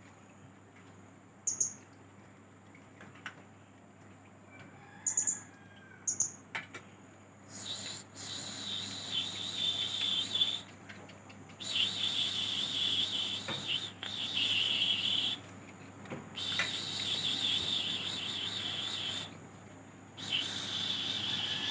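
Young blue-crowned hanging parrot (serindit) giving a few sharp high chirps, then long bouts of rapid, high twittering song in phrases of two to four seconds with short pauses between them: a young bird beginning to sing its call.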